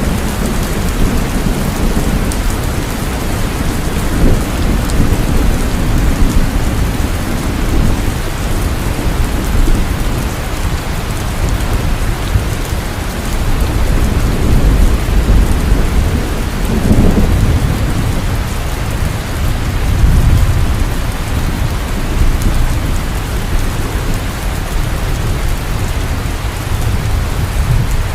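Heavy steady rain with thunder rumbling low in the background, swelling and fading several times.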